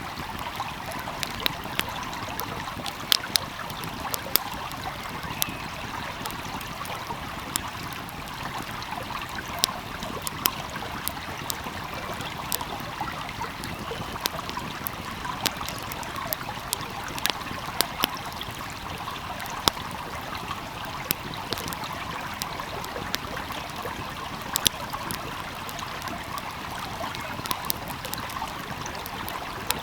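A stream flowing steadily with a wood fire crackling over it: sharp pops and snaps at irregular intervals above the even rush of water.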